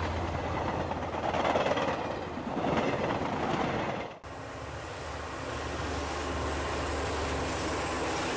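High-speed electric passenger trains rushing past at speed: a loud wash of wheel and air noise that swells and fades, then after a sudden cut about four seconds in, a second train passing with a steadier rush and a thin high whine.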